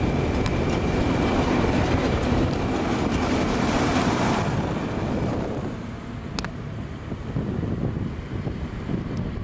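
Narrow-gauge sugar cane train running past with a high steady whine over the rumble of its wheels and wagons, fading away about five seconds in. It leaves wind on the microphone and a single sharp click.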